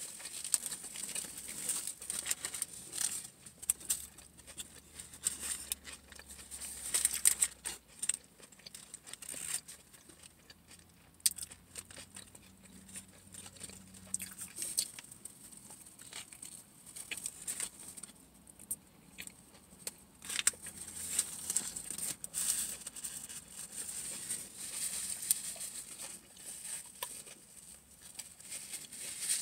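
Close-up eating sounds: chewing and smacking on a flatbread sandwich, in irregular small clicks and crackles, with the paper sandwich wrapper crinkling now and then.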